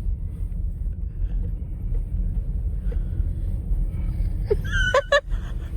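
Car engine idling, a steady low rumble heard from inside the cabin. A brief high-pitched voice cries out near the end.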